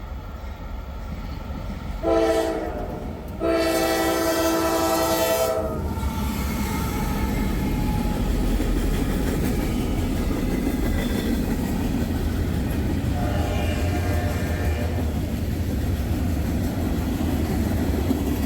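Freight locomotive's air horn sounding at a grade crossing: a short blast about two seconds in, then a longer one, each a chord of several tones. The train then rumbles steadily past, with another, fainter horn blast in the second half.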